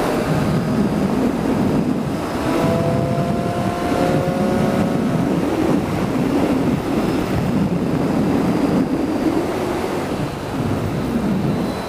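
Wind rushing over the microphone of a moving motorcycle, with the engine running underneath. A faint rising tone comes in a few seconds in.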